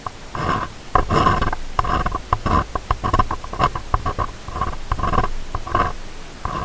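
An ear-cleaning tool scraping and rubbing right at a binaural microphone's ear, in short, irregular scratchy strokes of about two to three a second, close and loud.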